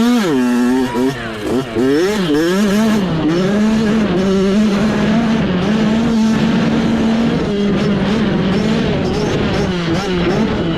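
Mini bike's small engine being ridden hard. The revs drop and swing up and down several times in the first couple of seconds, then the throttle is held steady for several seconds, and the revs waver and dip again near the end.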